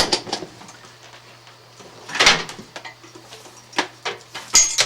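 Electrical cables and parts being handled and set down on a work surface: a few scattered knocks and rustles, the loudest about two seconds in and near the end.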